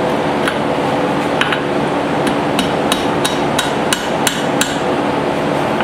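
Hand hammer striking hot steel on an anvil, about ten blows with a bright ring, coming faster after the first couple of seconds, to even out a lopsided side of a small hammer head. A steady hum runs underneath.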